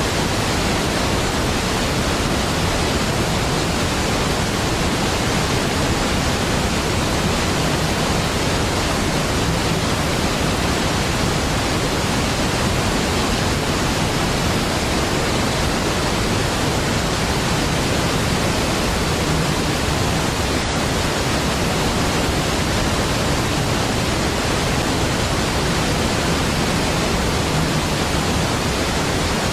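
Steady, even rush of a large waterfall, Niagara Falls, with no breaks or changes.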